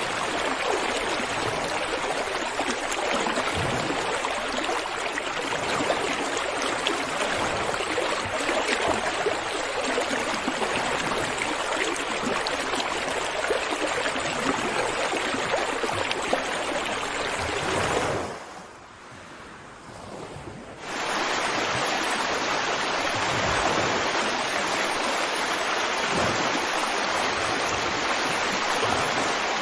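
Running water, a steady rush like a flowing stream. About two-thirds of the way in it drops away for roughly three seconds, then comes back.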